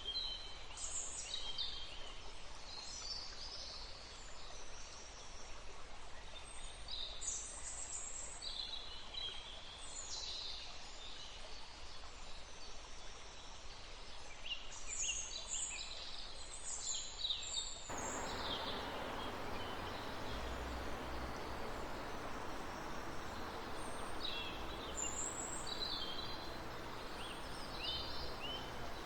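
Forest birds chirping and whistling in short, repeated calls over the steady rush of a running stream. About 18 seconds in, the water sound cuts abruptly to a louder, fuller rush and the bird calls become sparser.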